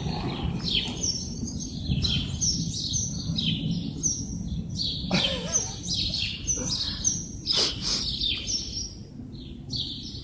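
Small birds chirping again and again, short high notes about twice a second, over a steady low rumble.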